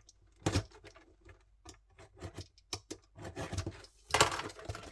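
Clicks, taps and rustles of a sellotaped cardboard box being handled and cut open with a small tool, with a louder, longer rasping noise about four seconds in.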